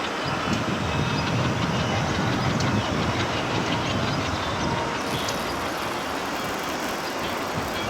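Passenger train coaches rolling past steadily, their wheels clattering over the rail joints.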